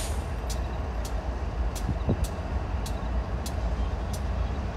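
Low, steady rumble of the diesel locomotives on a westbound BNSF double-stack freight train approaching, with scattered faint sharp ticks over it.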